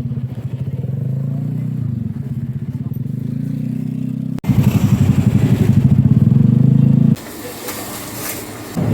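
A vehicle engine running steadily with a fast pulsing hum, in a few clips that cut abruptly into one another. The middle clip is louder, and the last is quieter and more hiss-like.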